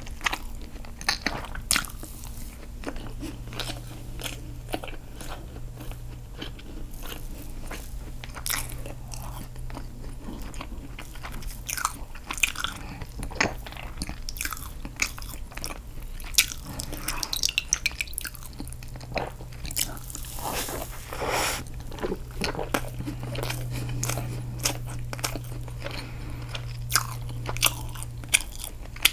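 Close-miked eating sounds: biting and chewing castella sponge cake dipped in milk, with irregular wet mouth clicks and smacks. A low steady hum runs underneath.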